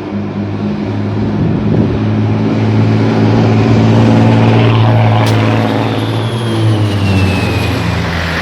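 Propeller aeroplane making a low pass overhead: its engine drone swells to its loudest about halfway through, then its pitch drops and it fades as it moves away.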